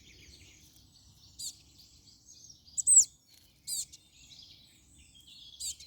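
European crested tits calling: short high notes every second or two over faint twittering. The loudest is a sharp note curving down, about three seconds in.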